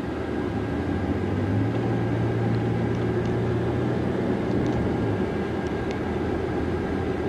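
Engine and road noise of a moving vehicle heard from inside the cabin: a steady low drone that grows a little stronger in the middle, then eases.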